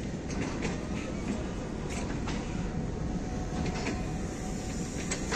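Passenger coaches of a departing train rolling past, a steady rumble of wheels on rail with irregular clicks and knocks as the wheels cross rail joints.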